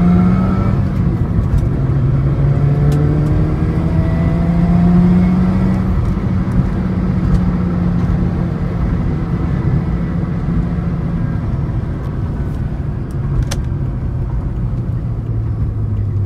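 1993 Mazda RX-7's twin-turbo rotary engine heard from inside the cabin on a test drive, its pitch climbing under acceleration in the first few seconds, then holding steady over road noise, and dropping lower near the end as the car eases off.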